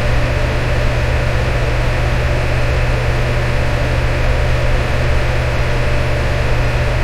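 Electric fan running steadily: a constant whooshing rush with a strong low hum and a faint steady tone in the midrange, unchanging throughout.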